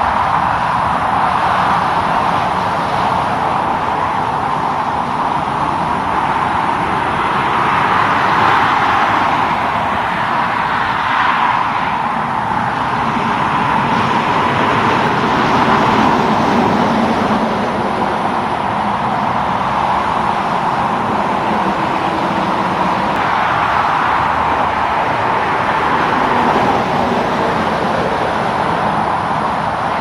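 Steady roadside traffic: road vehicles passing with tyre and engine noise, swelling and fading as each one goes by.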